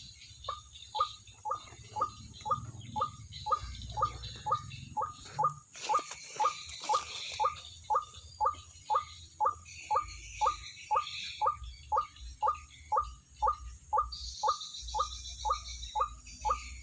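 White-breasted waterhen (ruak-ruak) calling: a steady run of short repeated calls, about two a second.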